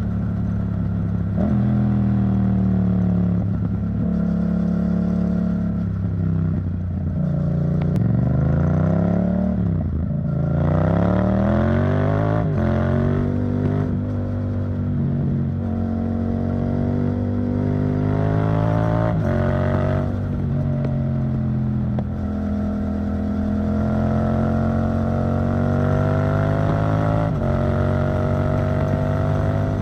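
Yamaha MT-07's parallel-twin engine through an Arrow Thunder titanium exhaust, running under way. The engine pitch holds steady, climbs and drops sharply twice near the middle as the revs rise and fall between gears, then swells gently again.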